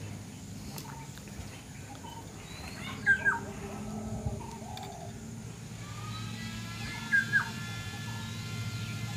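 A bird calling twice, about four seconds apart, each call a quick two-note chirp, over a steady low hum.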